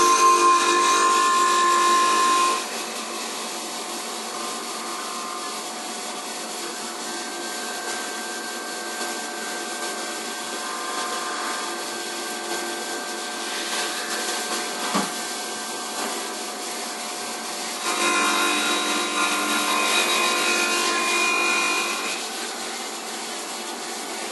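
CNC milling machine's fly cutter facing down a 1 mm step in a machined suspension arm, the spindle run slowly for a good finish: a steady machine drone with several held tones, louder while the cutter bites for the first couple of seconds and again for a few seconds near the end, with a single sharp click about midway.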